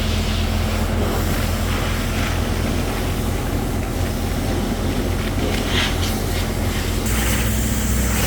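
Pressure washer running: a steady motor hum under the hiss of water spray, growing stronger near the end.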